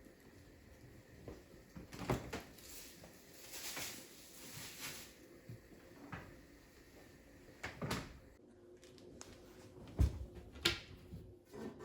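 Household handling sounds: soft rustling, then a few scattered knocks and clunks, the loudest about ten seconds in, like a cupboard door or drawer being shut.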